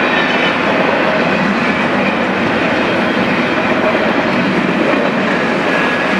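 Intermodal freight train rolling past, its wheels on the rails making a steady loud rumble with clickety-clack.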